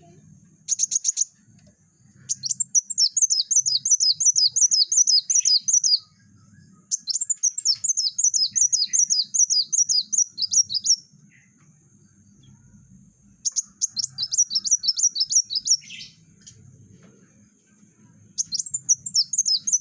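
Kolibri wulung sunbird singing in rapid, dense bouts: runs of sharp, high, downward-slurred notes at about four a second, each run lasting three to four seconds, repeated four times with short pauses between.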